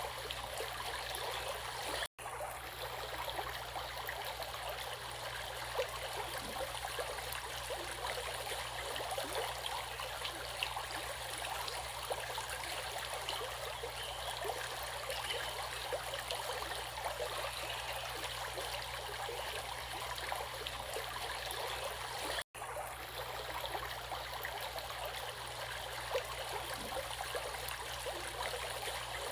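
Running water of a stream, a steady rushing and trickling. It cuts out for an instant twice, about two seconds in and again near the end.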